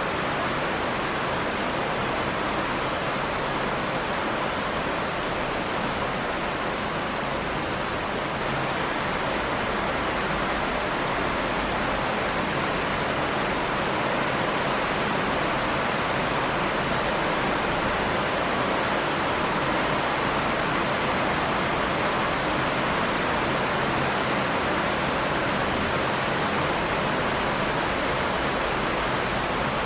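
Rain falling steadily, an even hiss that holds the same level throughout.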